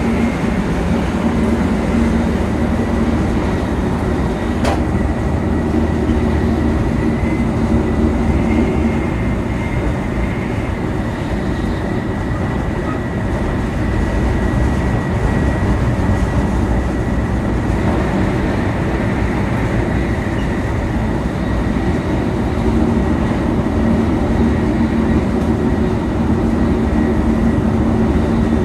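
Running noise heard on board a 700 series Shinkansen: a steady rumble of wheels on rail and a thin, steady high whine. There is one sharp click about five seconds in.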